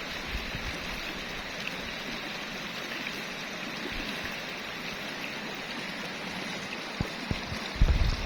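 Steady rush of a rain-swollen stream's water flowing past. A few low bumps on the microphone come near the end.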